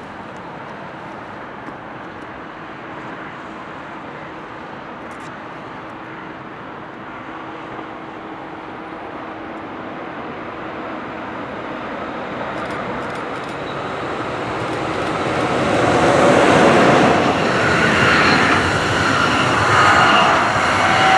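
A train on an electrified main line approaching and growing steadily louder over about fifteen seconds, then passing close by loudly with dense wheel and rail noise.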